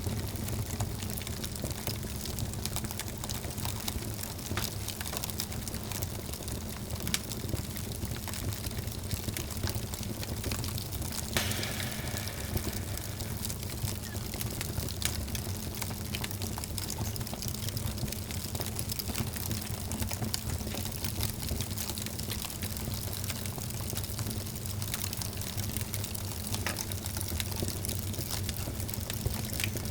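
Wood fire crackling in a fireplace: a steady low rumble of flames with frequent small, irregular pops and snaps.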